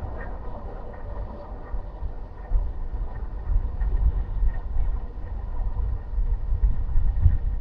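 Low, uneven rumble of a car driving on city streets: road and engine noise, rising and falling in surges.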